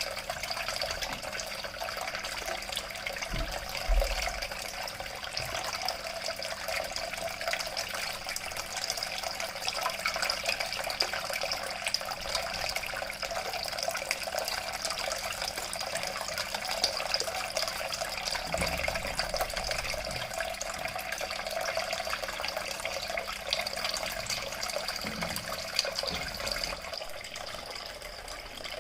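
Water from a small homemade waterfall fountain, recirculated by a mini water pump, splashing and trickling steadily.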